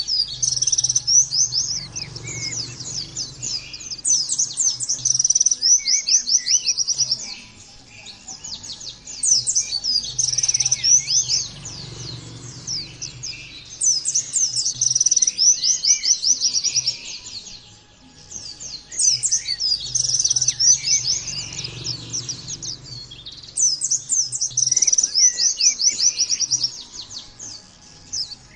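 White-eye (pleci) song: rapid, high, twittering phrases in bursts of a few seconds with short pauses between, repeated again and again over a faint low hum. This is a 'therapy' song recording meant to get captive white-eyes singing hard.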